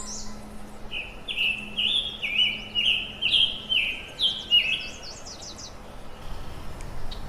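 A bird singing a quick series of repeated, short, sweeping chirps for about four seconds, over a steady background hiss.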